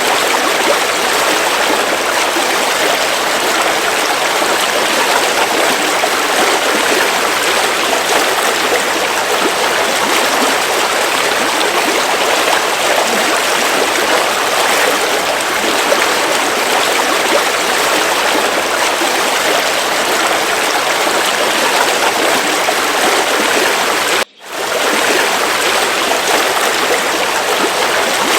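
River water flowing steadily, an even rushing noise. A split-second gap about 24 seconds in briefly cuts it out.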